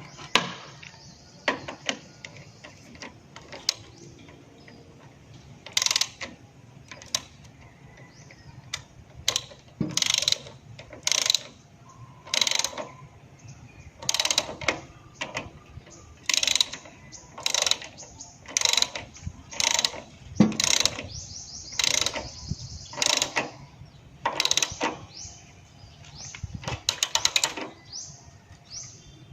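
Repeated short, sharp mechanical rasps, about one a second, from hand-tool work on a small engine; no engine is running.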